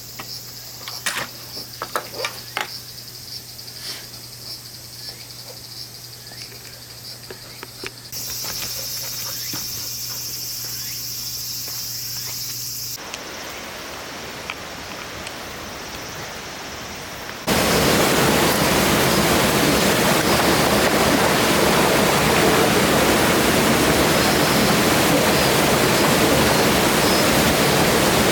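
Light clicks and clinks, then a steady high insect chorus. About two-thirds of the way in, a shot change brings a loud, even rushing of a mountain stream, which is the loudest sound.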